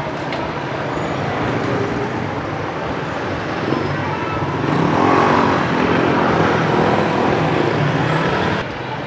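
Road traffic running steadily, with one vehicle's engine growing louder as it passes close about halfway through, then the level dropping sharply near the end.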